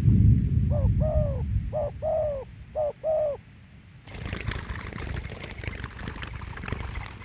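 Spotted dove cooing: three two-note coos in a row, a short note followed by a longer one that bends down in pitch. A low rumble sits under the first coos, and a crackling rustle starts about four seconds in.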